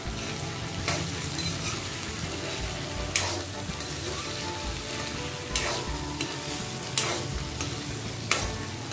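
Cauliflower florets frying in oil in a metal kadhai with a steady sizzle as they are stirred with cornflour, a metal spoon scraping and knocking against the pan every second or two.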